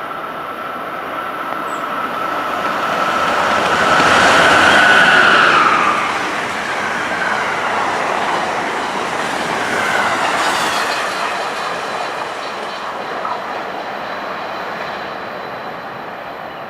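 Electric passenger train passing at speed: the rush of wheels on the rails builds to a peak about five seconds in and fades away, with a steady whine that drops in pitch as the train goes by.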